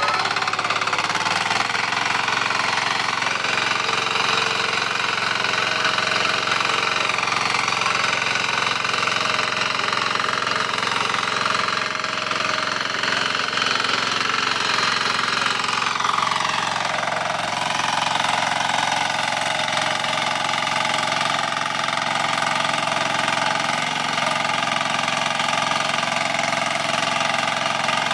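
Kirloskar Mini T8 power weeder's diesel engine running steadily with a hard, knocking beat; its tone dips lower about sixteen seconds in.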